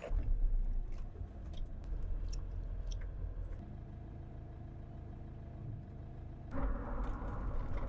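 Motor vehicle running, a steady low engine and road rumble that grows louder and fuller near the end.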